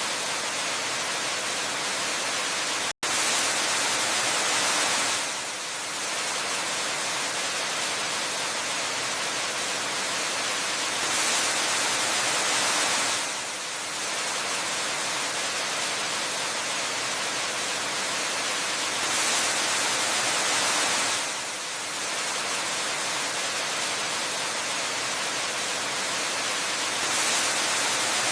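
Waterfall rushing water as a steady, hiss-like noise that swells gently about every eight seconds. A split-second gap in the sound comes about three seconds in.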